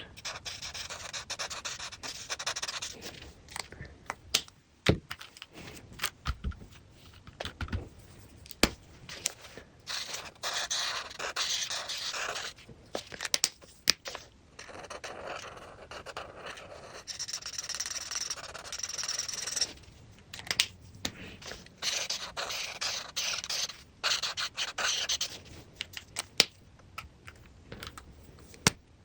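Coloring strokes scratching back and forth across paper in runs of a few seconds, with sharp taps and clicks in between.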